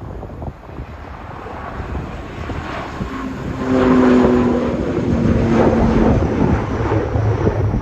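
An airliner passing close by, its engine tone swelling to a peak and dipping slightly in pitch as it goes past. Wind buffets the microphone throughout.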